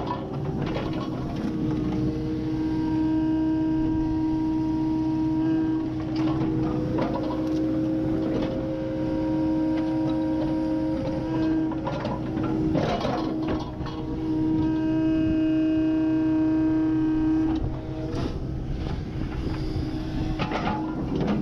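Kubota KX080 excavator's diesel engine working under load, with a steady hydraulic whine that shifts in pitch as the boom and bucket move, and scattered knocks and cracks as the bucket rips out tree stumps.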